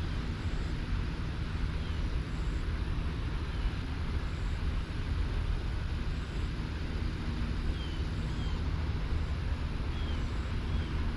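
Steady low rumble of distant road traffic. A few short, faint bird chirps come through it now and then.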